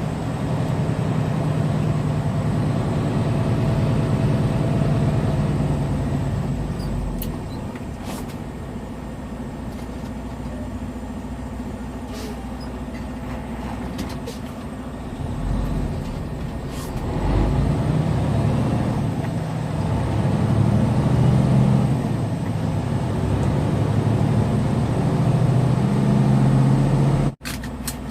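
Tractor-trailer's diesel engine running under load, heard from the cab. The engine note fades about six seconds in, comes back stronger from about seventeen seconds, and cuts off abruptly near the end.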